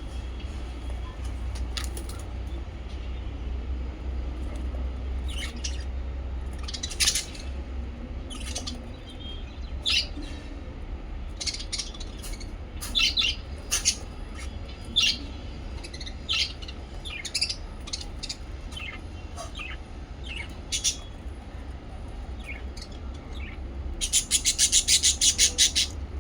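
Small pet parrots chirping: scattered short, sharp chirps, then a fast run of about a dozen repeated chirps near the end, over a low steady hum.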